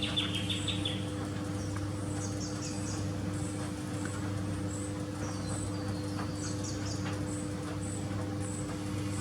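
Scattered high, thin chirps and short stepped trills of small birds, coming in brief bursts every second or two over a steady low hum.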